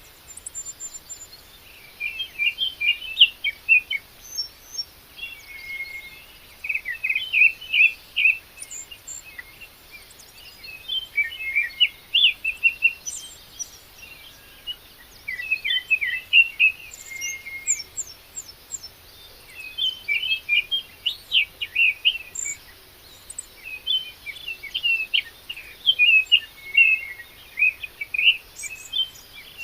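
Birds singing: short phrases of quick chirping notes repeated every few seconds, with a few thin higher notes between them.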